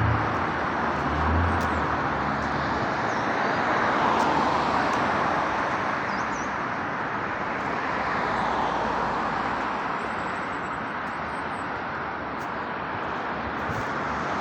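Steady outdoor rushing noise that swells and fades slowly, with a few faint, short, high chirps over it.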